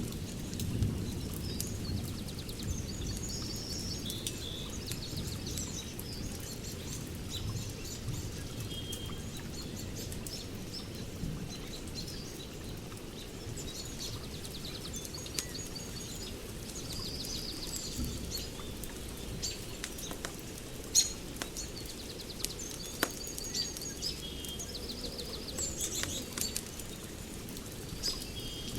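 Birds chirping and trilling over the sharp, scattered crackles of a wood fire, with a steady low rumble underneath.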